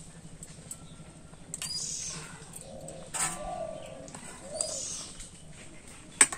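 Birds calling: a high, curving call twice, about three seconds apart, with softer lower calls between them. A sharp knock comes just before the end.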